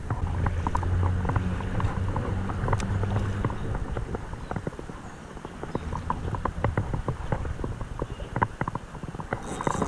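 Rapid, irregular clicking and rattling from fishing tackle being handled, with a low rumble of handling or wind on the microphone for the first few seconds that eases off around five seconds in.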